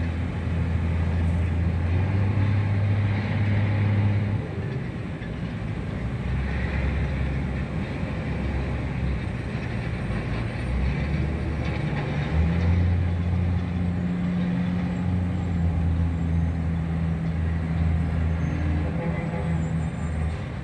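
Low, steady engine hum of motor vehicles, with pitch and level shifting every few seconds over a haze of street noise.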